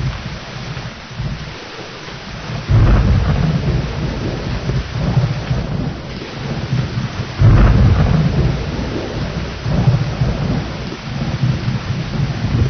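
Steady rain with rolling thunder: two deep thunderclaps break in sharply, about three seconds in and again past seven seconds, each rumbling and fading over a few seconds.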